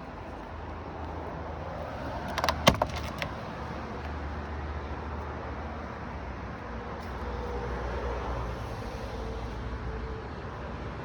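Tofaş Doğan 1.6 ie SLX's fuel-injected four-cylinder engine running steadily, with a quick cluster of clicks and knocks about two and a half seconds in, one sharp clack the loudest.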